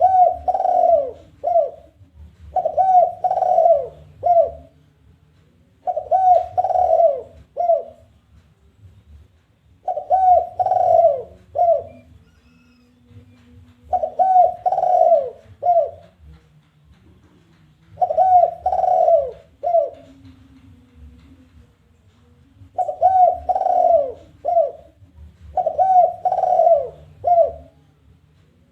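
Spotted dove (tekukur) giving its challenge cooing call: phrases of three or four falling coos, repeated about every three to four seconds.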